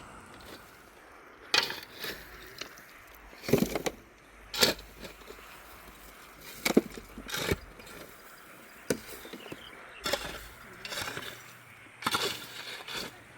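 An irregular series of about ten sharp knocks or strikes, some coming in quick pairs, with gaps of up to a second or two between them.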